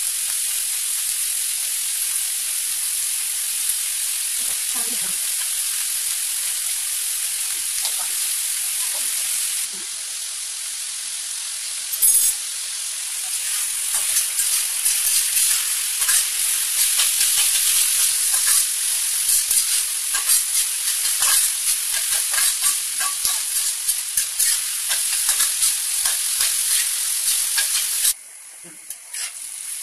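Chopped vegetables sizzling in hot oil in a kadai, a steady high hiss, with a sudden louder flare of sizzle about twelve seconds in. After that a spatula stirs and scrapes against the pan, adding quick clacks over the sizzle, until the sound drops away sharply near the end.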